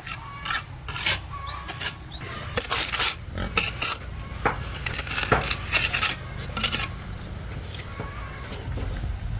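An irregular run of sharp clinks and knocks of hard objects, thickest in the middle.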